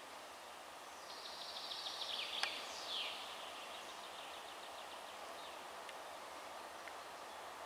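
A small songbird sings one rapid trilled phrase ending in a quick falling sweep, over a faint steady outdoor hiss.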